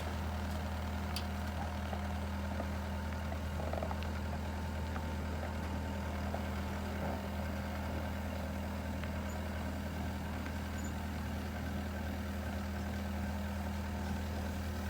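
Heavy vehicle engine running steadily at a low, even speed, with one sharp click right at the start.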